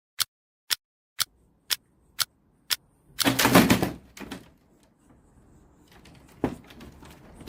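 A run of six sharp, evenly spaced clicks, about two a second, then a loud noisy burst lasting under a second, and a single knock near the end.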